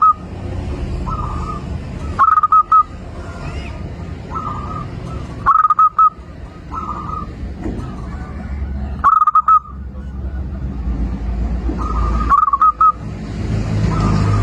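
Zebra dove (perkutut) cooing: short, trilled coo phrases repeated every one to three seconds, some soft and some loud. A low rumble runs beneath and grows louder near the end.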